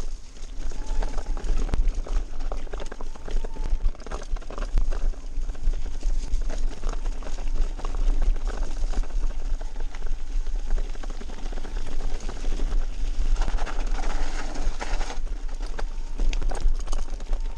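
Mountain bike descending a rough, muddy trail: continuous irregular rattling and knocking from the bike and its tyres over the ground, with a heavy wind rumble on the microphone.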